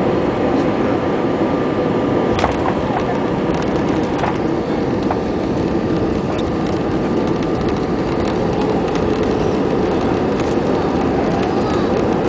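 Airliner cabin noise during landing: the steady hum of the jet engines and rushing air, with a few brief clicks, the first about two seconds in.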